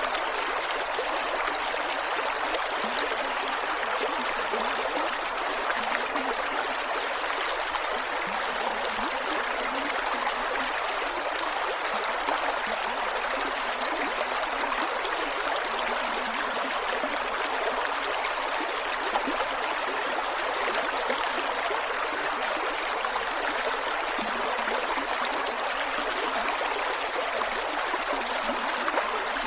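A creek running over rocks, with steady gurgling and trickling water.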